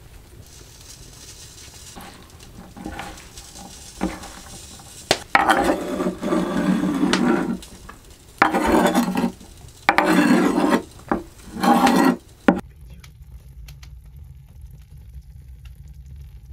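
Kitchen utensils scraping and rubbing against a dish or wooden board in four loud bursts of a second or two each, with a few light clicks before them.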